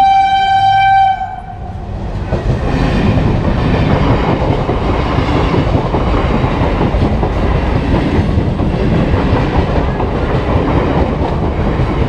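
Electric suburban local train sounding one steady horn note for about a second and a half, then its coaches running steadily past close by, wheels going over the rails.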